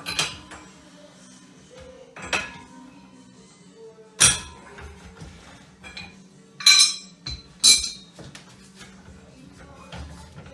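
Hard objects clinking and knocking: a handful of sharp, separate hits a second or two apart, each ringing briefly, the loudest two about two-thirds of the way through, with smaller ticks between.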